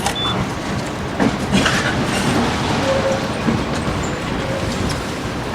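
Tram rolling along its rails: a steady rumble with scattered clicks and knocks from the wheels on the track.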